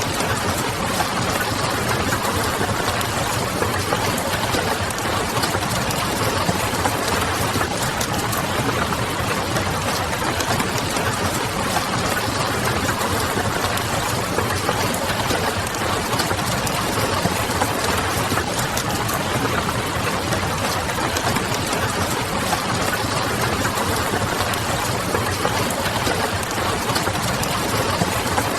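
Steady rain pattering mixed with the small crackles of a wood fire, over a low, even hum.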